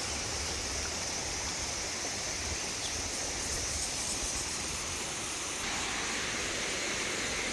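Waterfall rushing: a steady, even hiss of falling water that grows a little louder about six seconds in.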